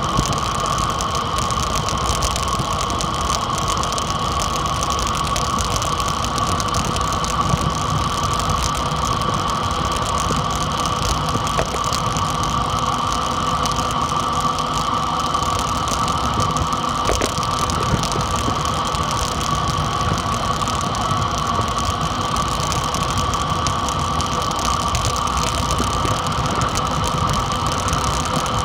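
Dirt bike engine running at a steady pitch while being ridden, with no clear revving.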